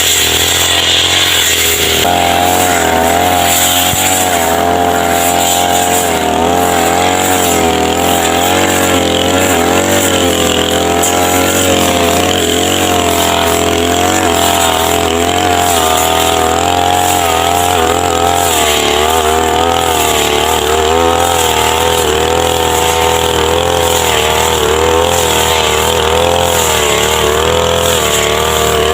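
Small engine of a roadside grass-cutting machine running continuously, its pitch wavering up and down, with a slight rise about two seconds in.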